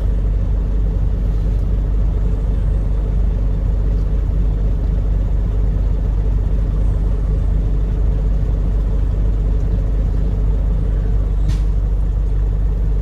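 Semi-truck's diesel engine idling steadily, a constant low rumble, with one short click near the end.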